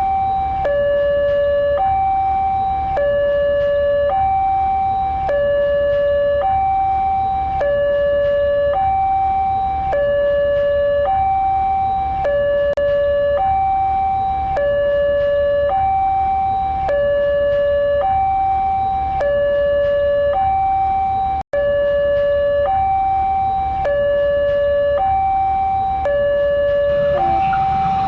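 Two-tone hi-lo siren sounding steadily, a higher and a lower note alternating about once a second, with a momentary cut about two-thirds of the way through.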